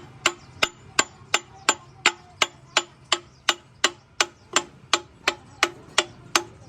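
Hammer striking metal in a steady, even rhythm of about three sharp blows a second, each with a short ring.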